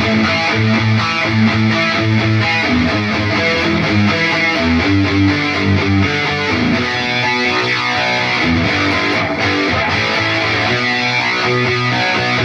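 Electric guitar noodling through an Atomic AmpliFire amp-modeler pedal, a continuous run of quickly changing distorted notes. It plays through cheap computer speakers plugged into the pedal's headphone output.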